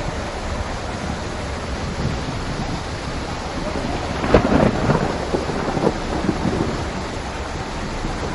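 Steady heavy rain, with a thunderclap about four seconds in that crackles in a few sharp cracks over roughly two seconds.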